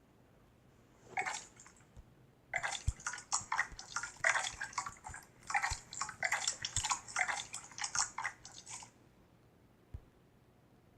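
Slime being squished and worked by hand: a short crackle about a second in, then a dense run of rapid wet pops and crackles lasting about six seconds.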